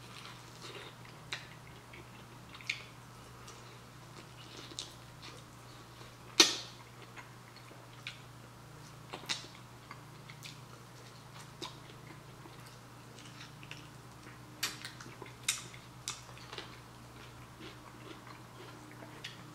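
Crispy Korean fried chicken wings being bitten and chewed: scattered crunches and wet mouth clicks, the loudest crunch about six seconds in.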